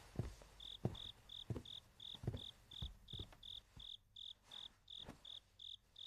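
Crickets chirping in a steady, even rhythm of about three short high chirps a second, starting about half a second in, with a few soft low thuds scattered underneath.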